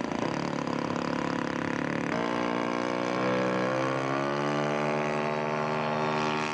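Radio-controlled scale Extra 300's engine and propeller opening up for a takeoff from the ground: the engine note jumps up in pitch about two seconds in, then keeps climbing steadily as the model accelerates.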